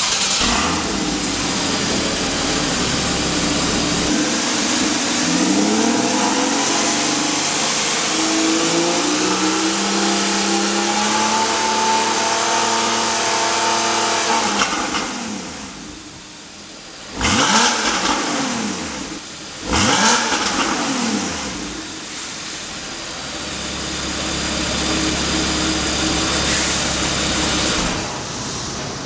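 Porsche 981 Boxster S flat-six engine through an iPE valvetronic aftermarket exhaust, pulling hard with its pitch climbing, then easing off. Two sharp throttle blips follow, each rising and falling quickly, about two and a half seconds apart. The engine then settles to a quieter, steady run.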